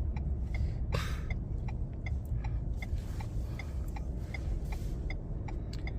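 Turn-signal indicator of a 2023 Ford pickup ticking evenly, about two and a half ticks a second, over the low rumble of the truck driving, heard inside the cab.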